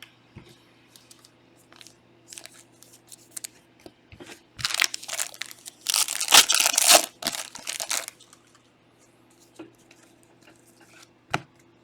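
Trading-card pack wrapper being torn open and crinkled, with a loud stretch of crinkling about halfway through, between scattered handling clicks.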